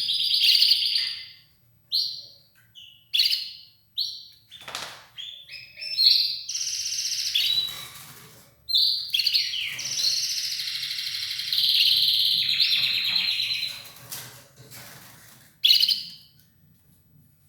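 Red ivory canary singing in broken phrases of rapid trills and chirps, running into longer rolling trills in the second half.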